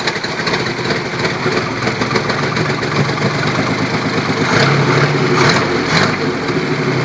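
Carbureted Chevrolet 292 straight-six engine of a homemade tractor running just after starting, mostly steady, picking up briefly a little past the middle; the owner says it needs some tuning.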